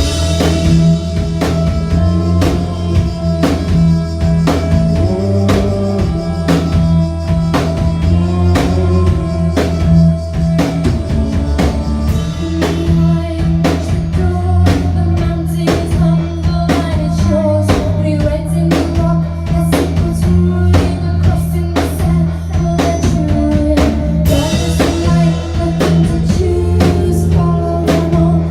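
Live rock band playing: drum kit beating a steady rhythm under loud guitar and bass, recorded from the crowd with the room's echo.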